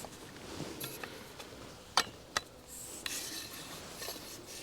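Faint rubbing and handling of adjustable camping gear, with a sharp click about two seconds in and a smaller one just after.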